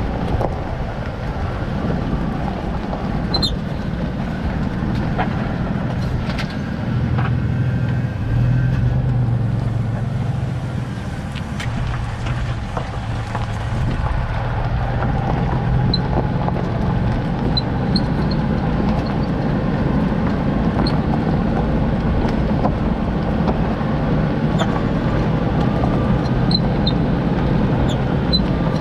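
Toyota Land Cruiser Prado 90 running with steady engine and road noise, a low hum underneath and short high-pitched squeaks now and then. The owner is hunting for a squeak in the rear suspension.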